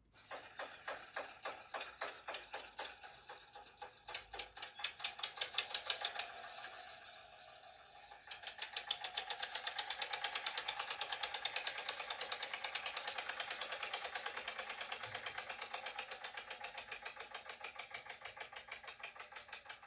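Small motor and gears of a mini toy tractor running with a rapid, rhythmic clicking rattle. The clicking speeds up and evens out about eight seconds in.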